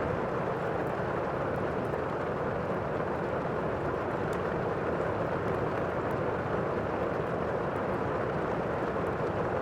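Steady rainstorm ambience, a dense, even rushing hiss of rain, with faint scattered crackles from a log fire.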